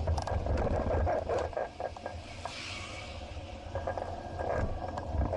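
Wind buffeting an action camera's microphone on a moving bicycle, a steady low rumble, with scattered light clicks and rattles and a short hiss about two and a half seconds in.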